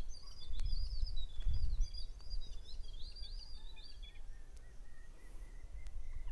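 Small birds chirping: a rapid run of short, arched, high notes that stops about four seconds in, after which a single thin, steady high call carries on. A low background rumble runs underneath.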